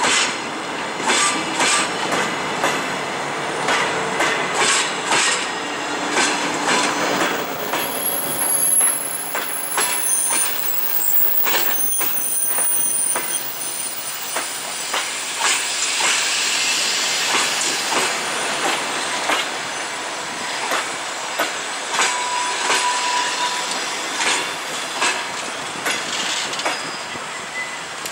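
Passenger coaches of an arriving train rolling slowly past, their wheels knocking irregularly over rail joints and switches. Thin, high wheel squeals come and go, mostly in the middle.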